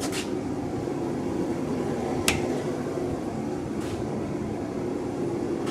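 A steady mechanical hum, with one sharp click a little over two seconds in.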